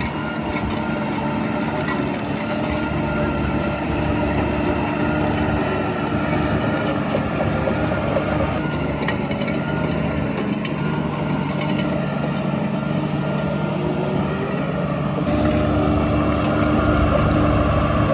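Heavy diesel engine of earthmoving machinery running steadily, its low rumble growing louder about fifteen seconds in.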